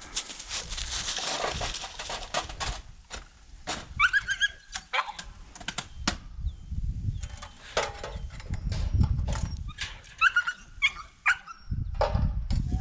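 A dog whining in short rising cries, once about four seconds in and again about ten seconds in, amid rustling and scattered sharp clicks and knocks.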